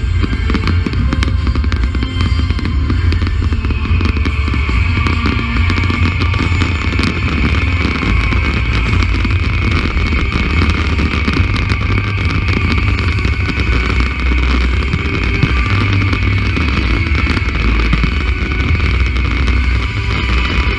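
Loud music from a fireworks display's sound system, heavy in the bass, with fireworks banging and crackling over it; a held high note comes in about four seconds in.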